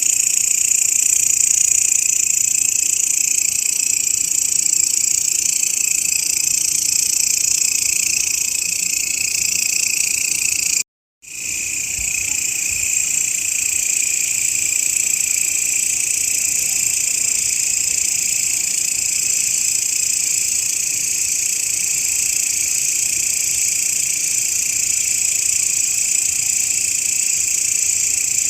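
Grasshoppers (belalang) stridulating in a dense, steady, high-pitched buzz, broken by a short cut to silence about eleven seconds in before it resumes.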